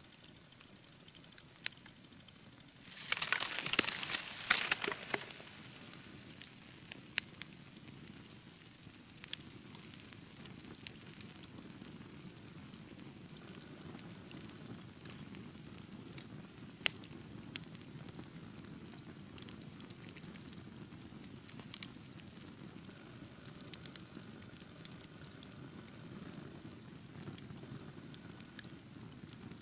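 Wood fire in a fireplace crackling, with scattered sharp pops over the low steady rush of the flames. About three seconds in comes a loud burst of dense crackling lasting a couple of seconds.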